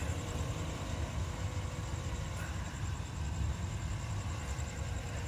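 2016 Honda Odyssey's 3.5-litre V6 idling steadily, a low even rumble.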